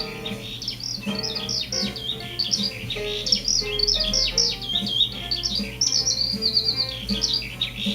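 Many small songbirds chirping and singing at once in a dense, continuous chorus of quick high twitters and trills, played back from a bird-watching video, over a steady low hum.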